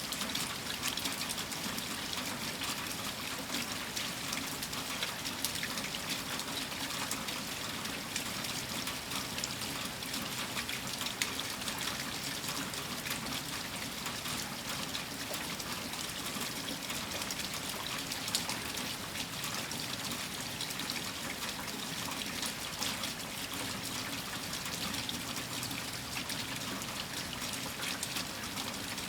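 Steady rainfall during a heavy winter storm: a dense, even patter of many drops that does not let up.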